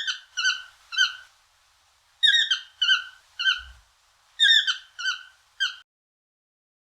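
An animal calling: short, high-pitched notes, each dropping slightly in pitch, repeated in three quick runs of three, four and four notes with short pauses between.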